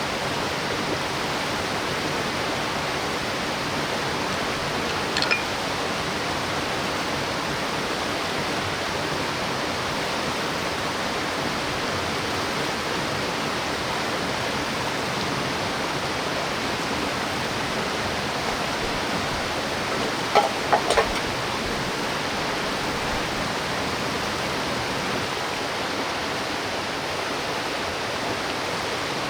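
Mountain stream rushing steadily over rocks, with a brief sharp click about five seconds in and a quick cluster of clicks around twenty seconds in.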